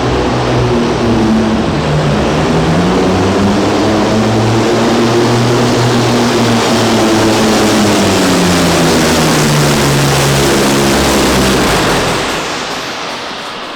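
Big diesel truck engine running under full load on a pull, loud and sustained, its pitch wavering slowly as the revs shift, then backing off near the end.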